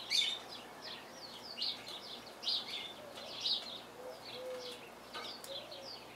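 Small birds chirping over and over: short, quick downward chirps, several a second, with a few light clicks among them.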